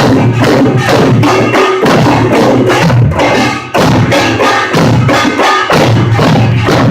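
Pungmul percussion band playing a fast, driving rhythm: kkwaenggwari small gongs clanging over janggu and buk drums. It is recorded loud on a phone with poor, harsh sound, and there is a brief drop a little past halfway before the playing comes back in full.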